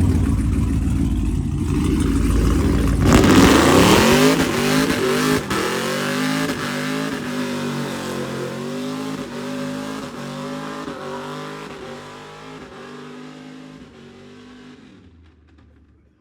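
A car engine accelerating hard away at full throttle, its pitch climbing and dropping back again and again as it shifts up through the gears, fading steadily into the distance.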